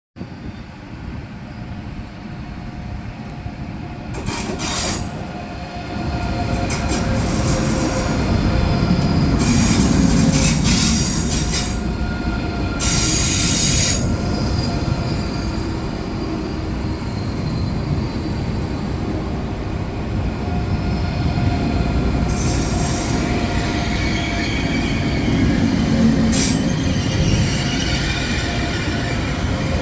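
ICE 3 class 403 high-speed train running as a single unit, rolling into the station with a steady low rumble. Several short bursts of high-pitched squeal come from its wheels and brakes.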